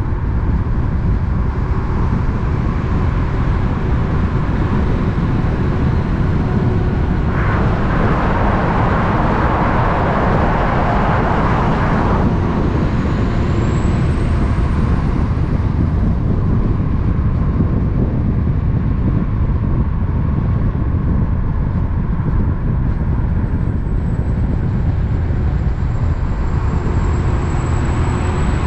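Heavy truck traffic: a steady low engine rumble, with a rushing hiss about seven seconds in that lasts some four seconds. A thin high whine rises about halfway through and then holds.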